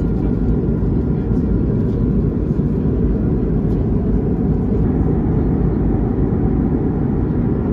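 Steady cabin noise of an Airbus A220-300 airliner: a constant low rumble of airflow and its Pratt & Whitney geared turbofan engines, with a faint steady hum above it.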